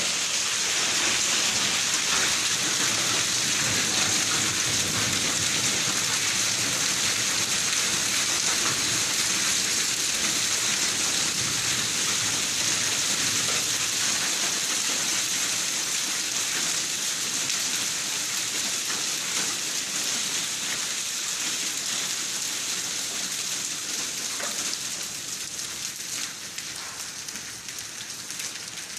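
Steady rain falling: an even, dense hiss of drops that eases slightly over the last few seconds.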